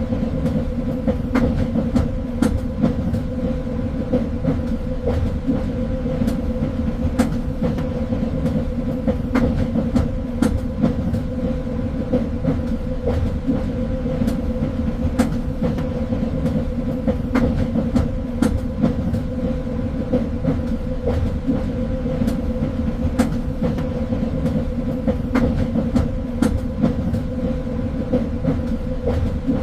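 Train running along the track: a steady low rumble with a constant hum, and sharp clicks from the wheels on the rails coming irregularly, about one or two a second.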